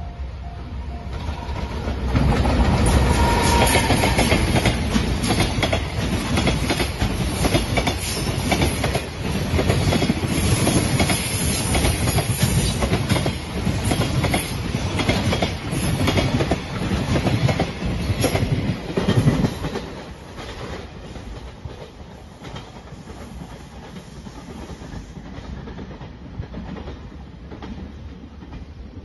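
JR Freight container train passing close by, its wheels clattering rhythmically over the rail joints. It grows loud about two seconds in, stays loud for some eighteen seconds and falls away as the last wagons pass. A level-crossing bell rings at the very start.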